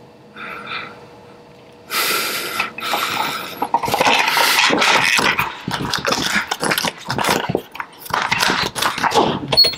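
A dog making loud, irregular bursts of noise from about two seconds in, after a short faint sound near the start.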